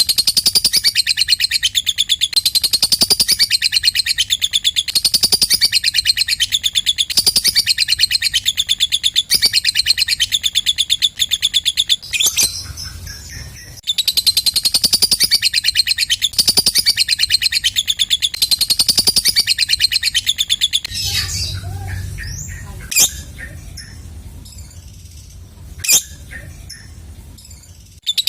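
Lovebird giving its long, rapid chattering trill (ngekek) in repeated phrases. It breaks off about twelve seconds in, resumes two seconds later, and stops after about twenty-one seconds, giving way to softer scattered chirps and two sharp clicks.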